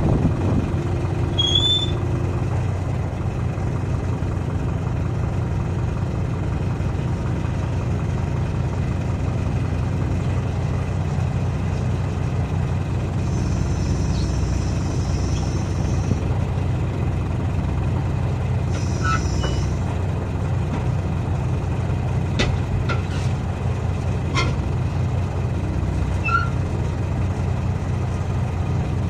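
A large diesel engine running steadily at idle. About halfway through come two short hisses of compressed air, and near the end a few light metallic clicks.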